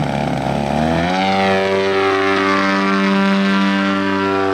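Brand new ZDZ 180 two-stroke gasoline engine on a model aircraft running with its propeller, revving up about a second in and then holding a steady high speed. The engine is new and still burning off its assembly grease.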